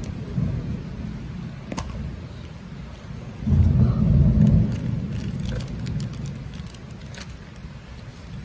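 Thunder rumbling over heavy rain, swelling loudest about halfway through. A few light clicks come and go.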